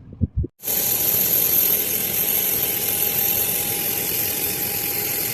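High-pressure natural gas jetting and burning out of the ground: a steady, loud hissing rush that starts abruptly about half a second in and cuts off suddenly near the end.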